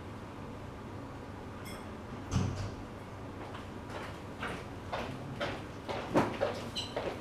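Household handling sounds: a thump a little over two seconds in, then a run of light knocks and clicks, with brief high ringing clinks, over a steady background hiss.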